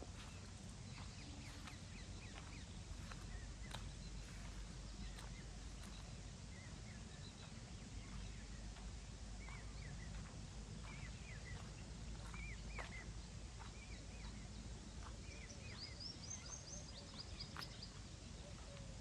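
Small birds chirping in short, scattered calls, with a quick run of higher notes near the end, over a steady low rumble.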